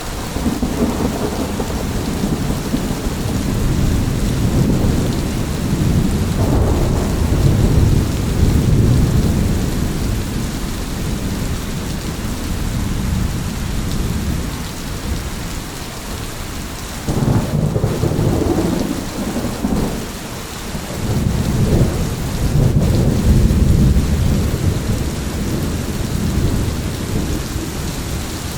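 Thunderstorm: steady rain with low rolling thunder that swells and fades several times, including a sudden rumble about seventeen seconds in and another long roll a few seconds later.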